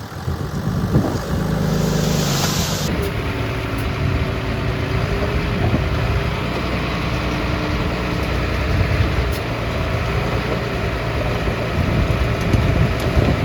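Heavy diesel engine of earth-moving machinery running steadily under work. A brief hiss about two seconds in stops abruptly.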